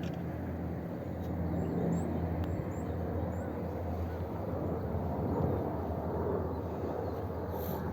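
A steady low engine-like rumble, with a few faint high rising chirps about two to three seconds in.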